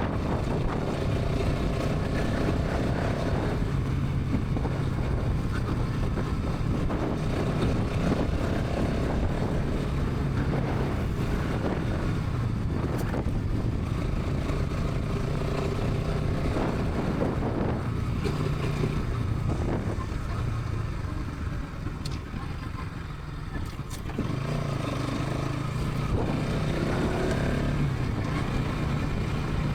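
Bajaj Pulsar NS 200's single-cylinder engine and exhaust running steadily at highway speed. The engine note eases off for a couple of seconds about three-quarters of the way through, then picks up again.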